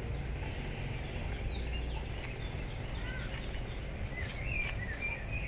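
Small birds chirping in short, curving notes, a few at first and more often from about four seconds in, over a steady low outdoor rumble.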